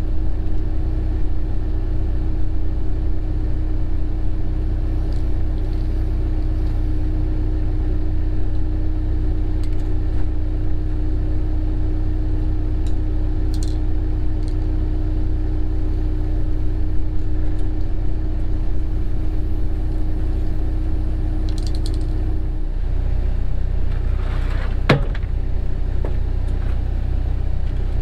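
Cat 307 excavator's diesel engine running steadily, with a steady hum over the engine that stops about three-quarters of the way through. A few sharp knocks come near the end.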